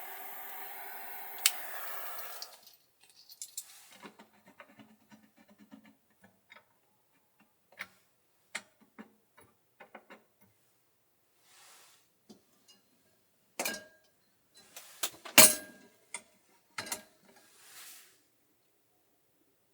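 Close-up handling sounds of small objects: a steady hiss stops about two and a half seconds in, then scattered light clicks, taps and clinks follow, with the loudest knocks near the middle and toward the end.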